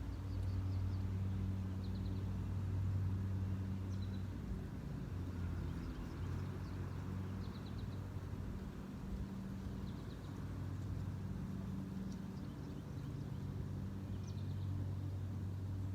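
A low, steady mechanical hum, like a distant engine, runs throughout. Over it, small birds give short, high chirps every second or two.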